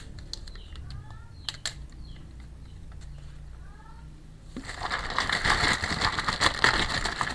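A few light clicks of small plastic toy pieces, then from about two-thirds in, loud crinkling of plastic packaging being handled.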